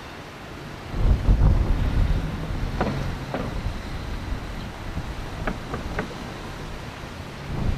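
A train's low rumble mixed with wind buffeting the microphone, growing louder about a second in, with several short sharp clicks or squeaks.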